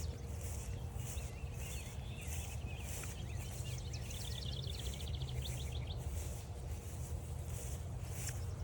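Songbirds singing in woodland: varied chirping phrases, then a rapid trill of about ten notes a second lasting a couple of seconds. A high pulsing call repeats about twice a second throughout, over a steady low rumble.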